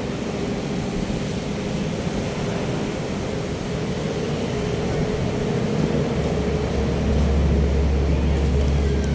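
An engine running steadily, with a deep rumble that grows louder about six seconds in.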